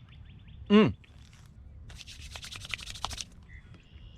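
A short falling vocal sound from a man, then about a second and a half of scratchy, crackly rubbing close to the microphone. Faint high chirps repeat in the background.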